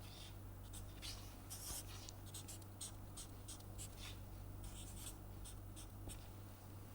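Faint scratching of a pen sketching a graph: a run of short, quick strokes, over a steady low hum.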